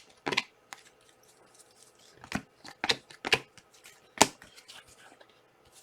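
Panini Prizm trading cards being flipped through by hand, one card slid off the stack at a time, giving several short sharp card snaps and clicks with soft rustling between them.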